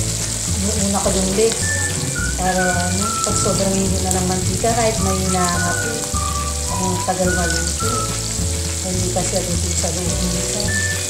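Coated chicken pieces deep-frying in hot oil in a wok, a steady sizzle and bubbling, over background music with a changing bass line and melody.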